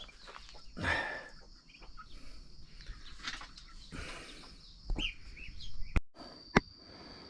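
Birds chirping in short, scattered calls, with a steady high insect drone. About six seconds in the sound drops out briefly, followed by a single sharp click.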